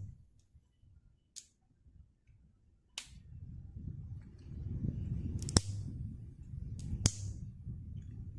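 Wood cracking and popping, typical of a campfire burning: four sharp, separate cracks a second or two apart over a low rumble.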